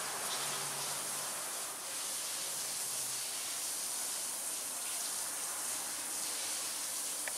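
Steady high-pitched buzzing of insects in garden ambience, with a faint low hum that fades out about three seconds in.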